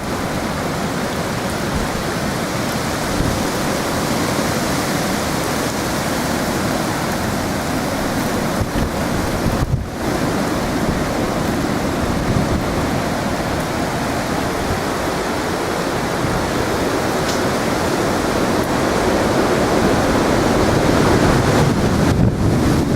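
Strong storm wind from Hurricane Sandy blowing steadily and buffeting the microphone, growing slightly stronger near the end.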